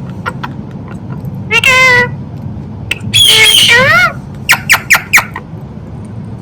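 Indian ringneck parrot calling: a short drawn call about a second and a half in, a longer loud call around three seconds in, then four quick sharp squawks.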